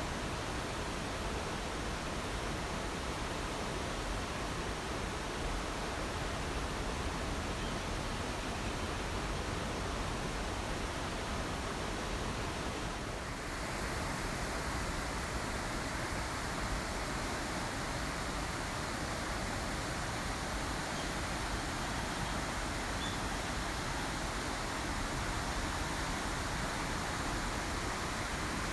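Steady rushing water noise, with no single events standing out; about halfway through it changes abruptly and loses some of its high hiss.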